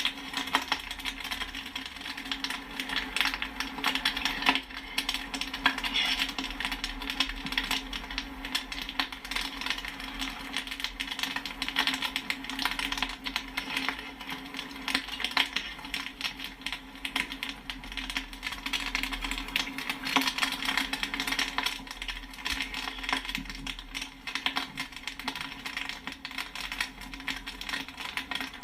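Popcorn kernels popping rapidly and continuously, a dense scatter of sharp pops and pings many times a second, over a steady low hum.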